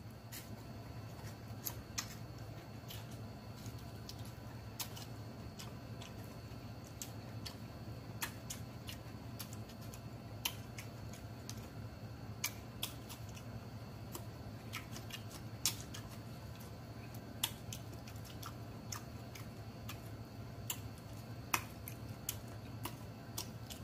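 Close-miked chewing and mouth smacking as a man eats cucumber slices, raw red onion and smoked sausage: scattered, irregular sharp wet clicks over a steady low hum.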